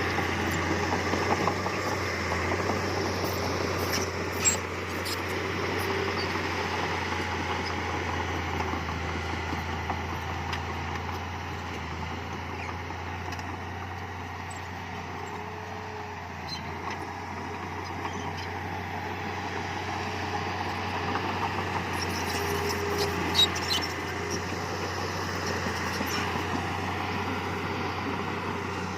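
Heavy diesel earthmoving machinery running steadily, with two short sharp knocks, one about four seconds in and one later on.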